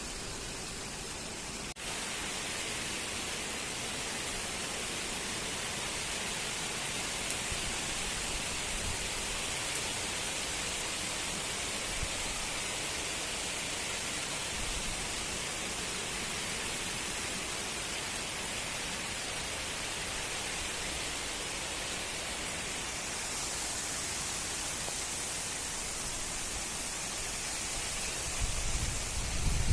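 Steady hiss of heavy rain falling. A low rumble swells near the end.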